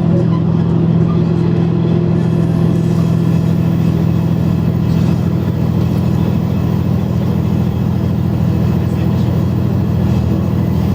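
KiHa 100 diesel railcar's engine running steadily as the train travels, a constant low drone with no change in pitch.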